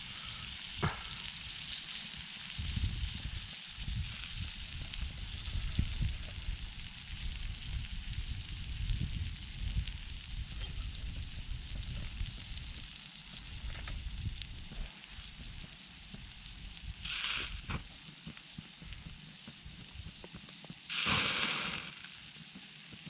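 Meat sizzling on a small iron griddle plate over a wood campfire, a steady frying hiss. Two short, louder rushes of noise come near the end, one about 17 seconds in and one about 21 seconds in.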